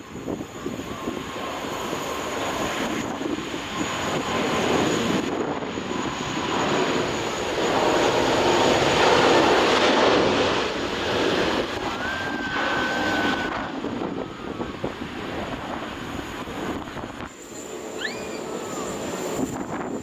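Jet engines of a Boeing 777-300ER airliner running at high power as it goes by, with a faint whine over the noise. The sound builds to its loudest about halfway through, then slowly fades.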